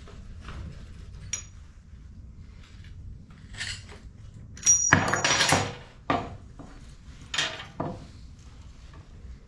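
Metal tools and parts being handled: scattered clinks and knocks, some ringing briefly, with a louder clatter lasting about a second about five seconds in.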